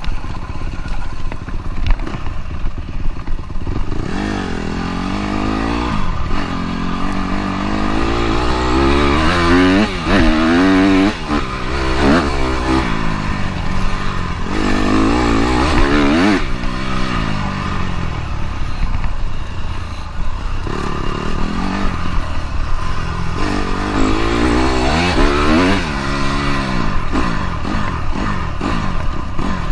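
Dirt bike engine being ridden, its pitch rising and falling several times as the throttle opens and closes, over a steady noisy rush.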